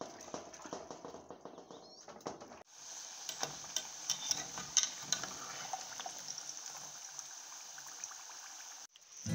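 Hands sloshing and scrubbing in water in a large aluminium pot. About three seconds in this gives way to plantain slices frying in hot oil in a pot: a steady sizzle with dense crackling, and the scrape of a slotted spoon stirring.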